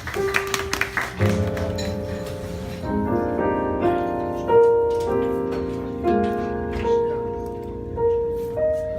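Piano playing slow sustained chords, struck about once a second and left to ring, opening the next jazz tune; a few short clicks come just before the first chord.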